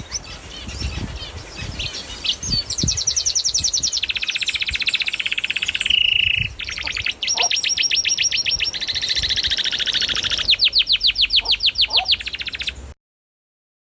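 Small cage birds singing: scattered chirps, then long, fast trills of rapidly repeated high notes. The sound cuts off suddenly near the end.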